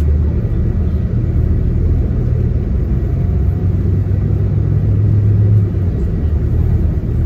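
Shuttle bus driving, heard from inside the cabin: a steady low engine drone that swells slightly and then eases off a little after five seconds.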